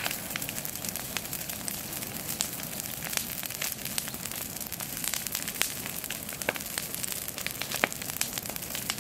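Bonfire of dry garden waste (brushwood, leaves, pine needles and sticks) burning with a steady hiss and many sharp crackles and pops.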